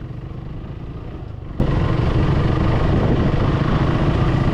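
Motorcycle engine running at a low level, then, about a second and a half in, a sudden step up to louder running with a steady rush of noise over it.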